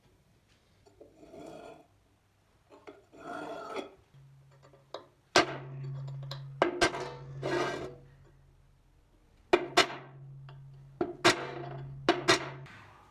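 Metal workshop sounds: two scraping or rubbing strokes, then a series of sharp metallic knocks and clinks from metal parts being handled. A low steady hum runs underneath twice for a few seconds each.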